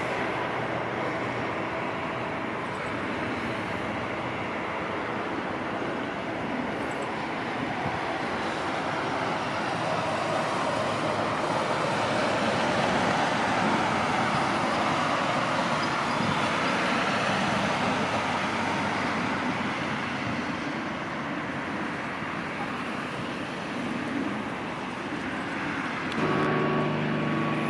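Jet airliner's turbofan engines at takeoff power on the takeoff roll: a broad, steady roar that swells to its loudest about halfway through and then holds. Near the end it changes to a steadier hum with several tones.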